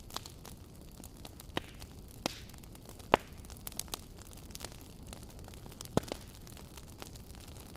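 Wood fire burning with irregular crackles and pops over a steady low rumble; the sharpest pops come about three seconds in and again about six seconds in.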